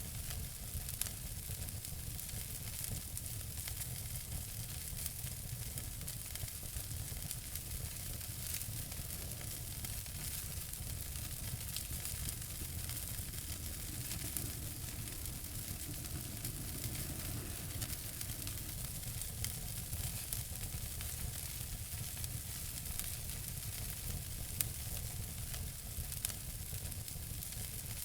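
Wood fire crackling in a fireplace: a steady hiss with many small crackles and a few louder pops, one about a second in and two near the end.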